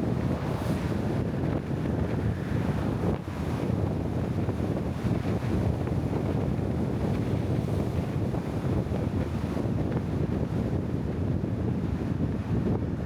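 Steady low rushing noise of wind buffeting the microphone while travelling, even throughout with no distinct events.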